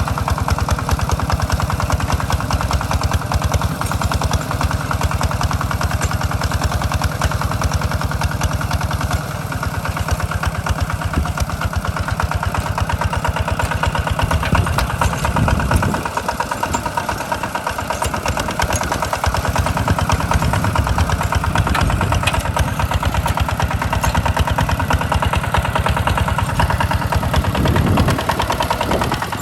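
Hand tractor's engine running steadily under load while plowing, with a rapid even firing beat. Its note shifts briefly about halfway through and again near the end.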